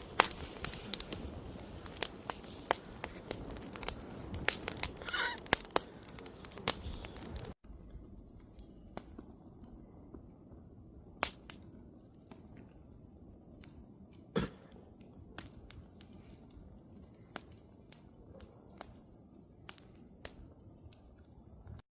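Wood campfire crackling, with frequent sharp pops and snaps over a steady hiss. About seven and a half seconds in it cuts off abruptly and resumes quieter, with fewer pops.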